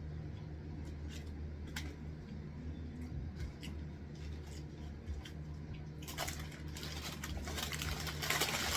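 Close-up chewing of crunchy food: soft scattered crunches and clicks, growing into denser crunching near the end, over a steady low electrical hum.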